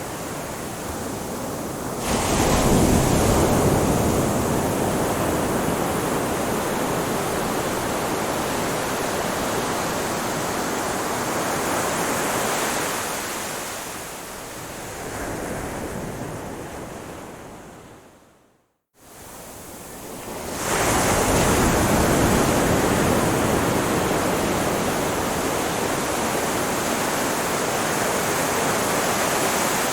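Ocean surf, waves breaking and washing on a shore as a continuous rushing noise. It swells about two seconds in, fades away to a brief silent gap a little past halfway, then swells back up a couple of seconds later.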